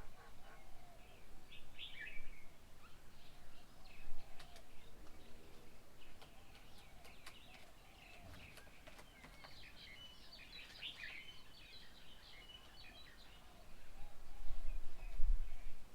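Birds chirping and calling, with busy bursts of short high chirps. A low rumble comes in near the end.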